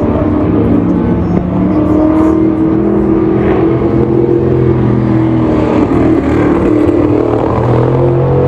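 Several historic racing car engines at high revs passing close by, their notes overlapping and sliding up and down in pitch as they accelerate and lift off.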